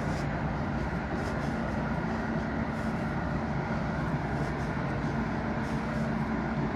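Steady, unbroken drone of a large engine running, with a constant low hum.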